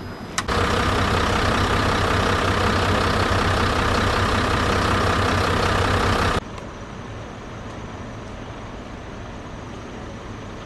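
Natural gas blowing out of a main pipe punctured by an excavator: a loud, steady hissing roar that starts abruptly about half a second in and cuts off abruptly after about six seconds, leaving a quieter steady background.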